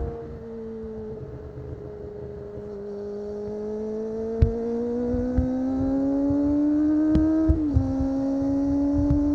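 Kawasaki ZX-25R's 250 cc inline-four with an Akrapovic exhaust, heard from onboard while riding: the engine note holds fairly steady, then climbs as the bike accelerates, drops sharply at an upshift about seven and a half seconds in, and settles steady in the next gear. Occasional short thumps sound over it.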